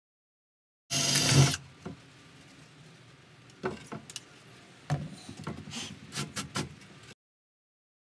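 A cordless drill runs briefly, about a second in, drilling into a wooden box lid, followed by a string of light clicks and knocks as tools are handled and set down on the bench.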